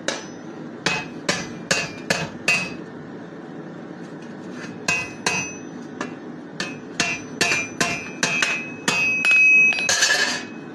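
Blacksmith's hammer striking steel, each blow ringing: about six fairly even blows, a pause of about two seconds, then a quicker run of about a dozen more. A short, louder, harsher burst of noise comes near the end.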